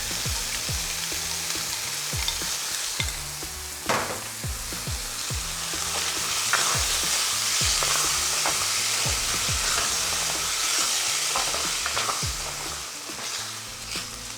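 Chicken sizzling in a hot pot as the sesame, soy and sweet chili sauce is stirred through it, with a knock against the pot about four seconds in. The sizzle grows louder from about six seconds.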